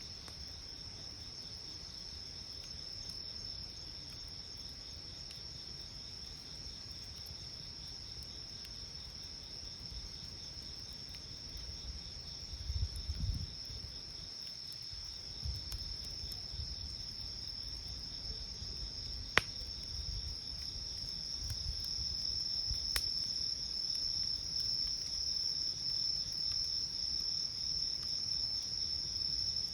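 Night insects trilling steadily in a high, continuous chorus. Two sharp crackles from the wood campfire about two-thirds of the way in, and a brief low rumble just before the middle.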